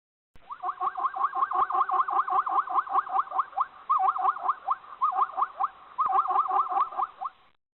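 An animal calling: a fast run of short, rising squeaks, about five a second, broken by a few short pauses.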